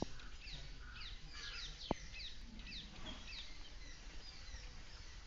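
Small birds chirping repeatedly: many short, high chirps sliding down in pitch, with a single sharp click about two seconds in.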